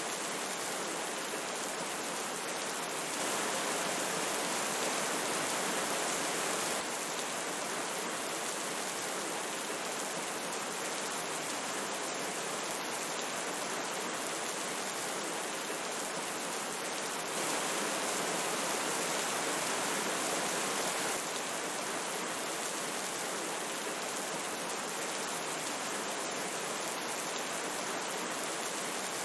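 Steady rushing of a river mixed with falling rain, an even wash of water noise. It grows a little louder for a few seconds twice, about three seconds in and again past the halfway point.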